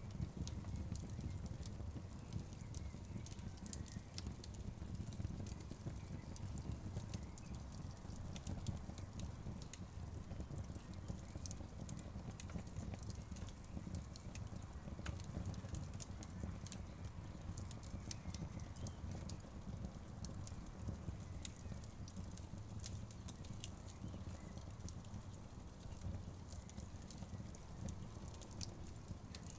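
Wood fire crackling, with scattered sharp pops and snaps over a steady low rumble from the burning logs.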